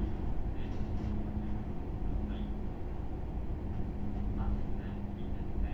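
Interior running sound of a JR West 103 series electric motor car with MT55 traction motors, under way. There is a steady low rumble of wheels on track with a faint steady hum.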